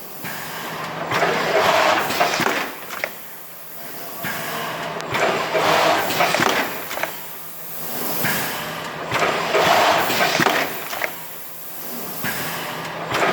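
Thermoforming machine running through its forming cycles. A loud rush of air noise with clicks swells and fades about every four seconds.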